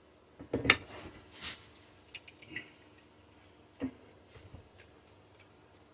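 Irregular clicks, clunks and a brief scrape of metal parts being handled as the steel end pieces of a microwave part's copper core are squeezed to try to pop them apart. The loudest is a single knock about a second in, with another near the four-second mark.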